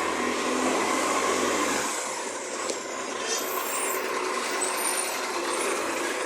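Recycling garbage truck running, with a steady low hum that cuts out about two seconds in and a sharp click shortly after.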